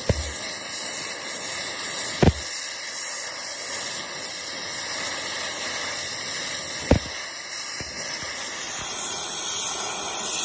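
A steady hiss, broken by three short knocks: one at the start, one about two seconds in and one near seven seconds.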